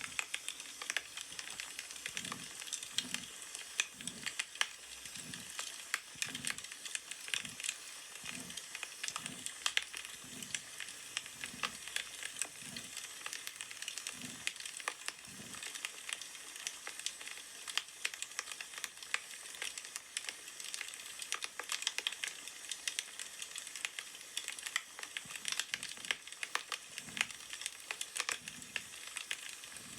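Wood fire crackling steadily with many small pops. Soft low strokes come about one and a half times a second through the first half and again near the end.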